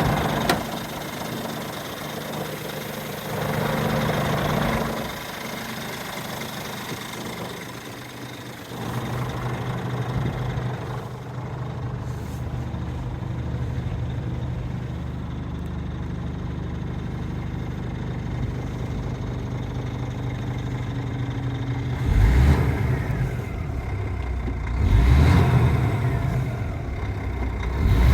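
Scania R450 truck's 13-litre inline-six diesel engine running at idle, its note shifting a few times, with two brief louder revs near the end.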